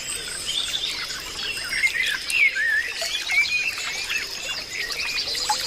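Many birds chirping and whistling at once in a dense, overlapping chorus, with a steady high whine underneath.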